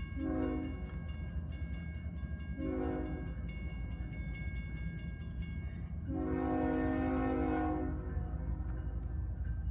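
Diesel freight locomotive's multi-note air horn sounding three blasts, two short and then one long, over the steady low rumble of the approaching train.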